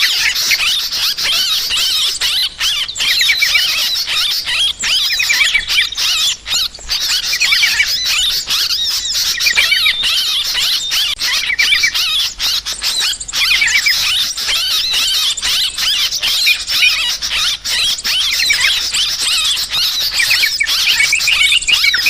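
A dense, agitated chorus of yellow-vented bulbuls (trucukan), many birds chattering and trilling over one another without a break. This alarm-like commotion is the kind of call played to lure bulbuls and small birds.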